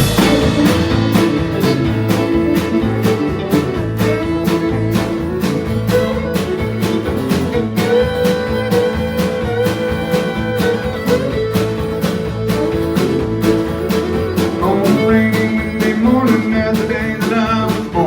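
Country band playing an instrumental intro, with a fiddle carrying the melody over guitar and a steady drum beat.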